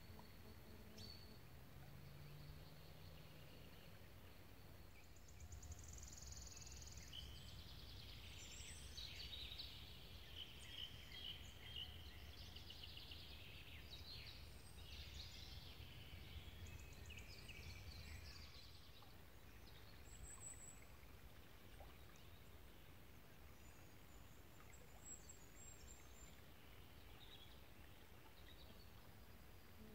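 Faint outdoor birdsong: small birds chirping and trilling, busiest through the middle stretch, with a few high chirps later, over a low steady rumble.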